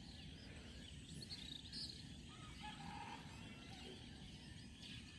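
Faint outdoor ambience: a low steady background hiss with faint birds chirping, and one brief faint tone about halfway through.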